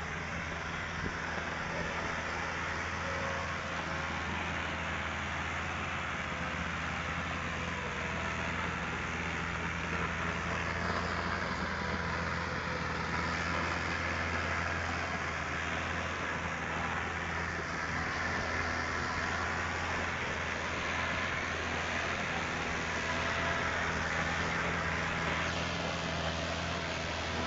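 Tractor engine running steadily, a low even drone with no change in pace.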